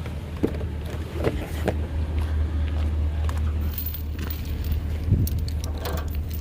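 1970 Chevrolet C50 dump truck running with a steady low rumble, with loose rattles and short clicks over it.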